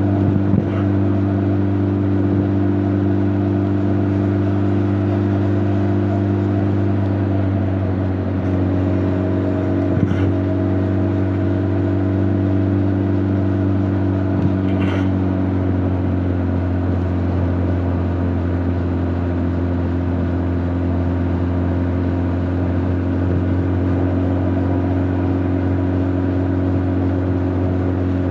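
Honda CB1300 Super Bol d'Or's inline-four engine and exhaust running at a steady cruise, the note easing slightly lower about halfway through, with little wind noise. A few brief clicks sound over it.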